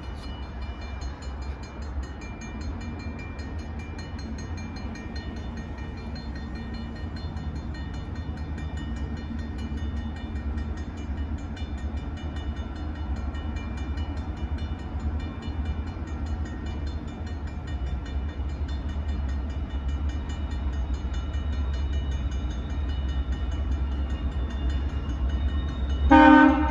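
Railroad grade-crossing bell ringing steadily over the low rumble of an approaching diesel freight train, which slowly grows louder. Near the end the locomotive sounds a short, loud horn blast.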